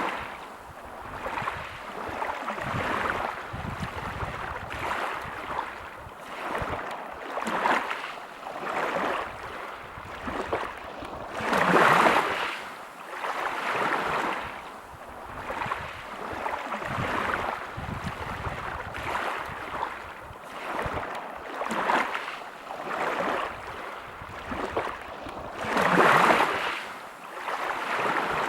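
Waves breaking on a pebble beach, each surge washing in over the stones and ebbing every couple of seconds. Two bigger waves break about twelve seconds in and near the end.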